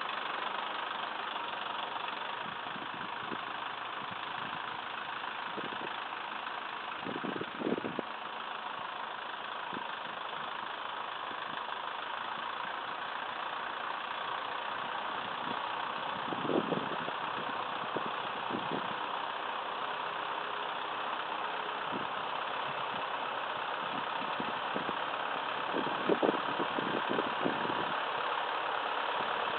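Massey Ferguson 2635 tractor's diesel engine running steadily, with a few short clunks at about a quarter of the way in, midway and near the end.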